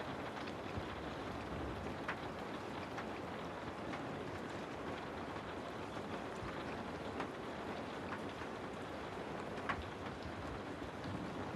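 Steady rainfall, a constant patter with scattered louder single drops, the sharpest a little before the end.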